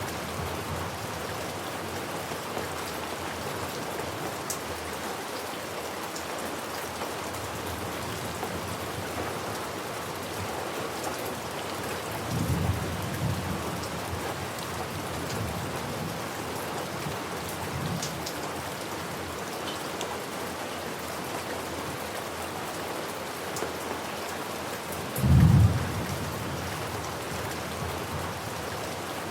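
Steady rain falling, with low rolls of thunder: one rumble about halfway through and a louder, short thunder crack near the end.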